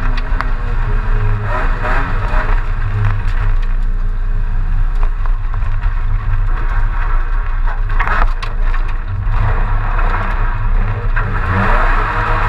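BMW E30 coupé's M30B35 straight-six engine running hard under way, its pitch rising as it revs a couple of times. A short sharp noise comes about eight seconds in.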